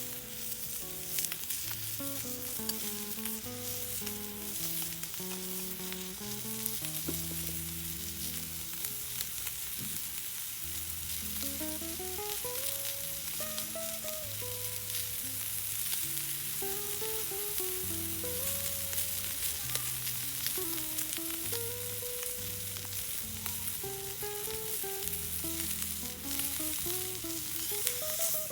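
Food frying and sizzling in a hot pan, a steady hiss with fine crackles, under soft background music of plucked melody notes.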